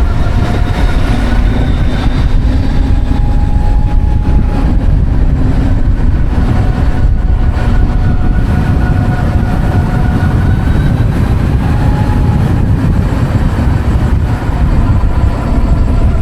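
Heavy wind rush over the microphone while riding a Savic C3 electric motorcycle, with the electric motor's faint whine drifting slowly up and down in pitch as the speed changes.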